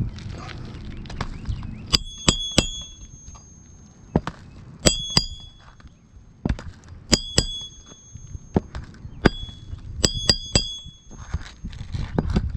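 Hammer driving 3/4 inch roofing nails into an asphalt shingle: four bursts of two or three sharp blows, each strike with a bright metallic ring.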